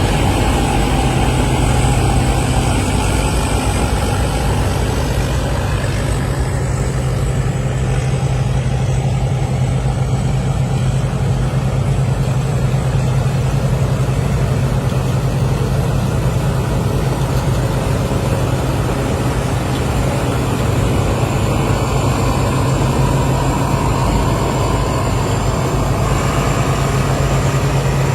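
Combine harvester's diesel engine and machinery running steadily, a deep hum under a constant wash of mechanical noise.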